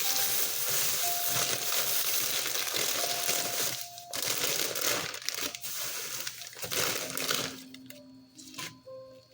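Plastic crinkling and rustling, dense for the first few seconds and then in shorter, quieter bursts, as salad ingredients and their packaging are handled, with faint background music.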